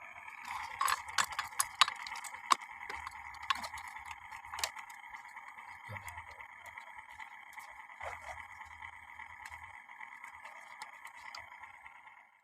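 A small electric motor whines steadily, with a scatter of light clicks and rattles in the first few seconds; it cuts off suddenly at the end.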